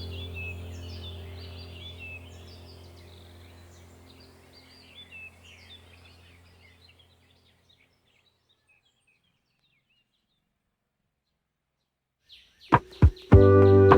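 A flock of house sparrows chirping over a steady low hum, the whole sound fading out over about seven seconds into silence. Near the end, music comes in with a few sharp strikes and ringing tones.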